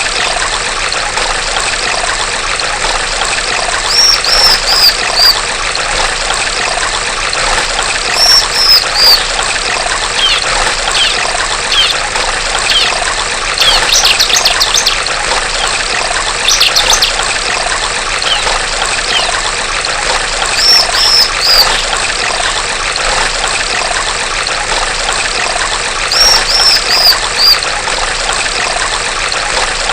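A female bar-winged prinia (ciblek) calling in short groups of about four high, falling notes every few seconds, with a burst of rapid chattering midway, over steady trickling, babbling water.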